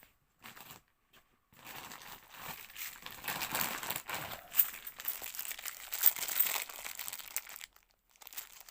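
Thin plastic bank coin bag crinkling as it is handled and opened, starting about a second and a half in and stopping shortly before the end.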